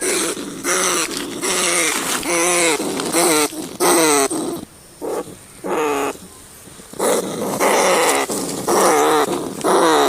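Rats giving a rapid series of short, wavering squealing cries, about a dozen in all, with a quieter pause in the middle.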